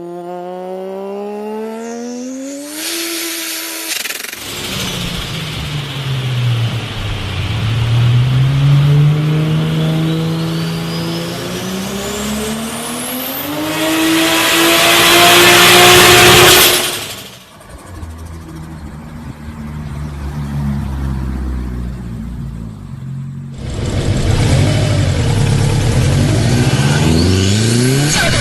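Big-turbo car engines revving hard in a run of short clips. The engine note climbs with a rising turbo whistle, then drops away suddenly as the throttle shuts, with turbo flutter after it. Another car then revs up.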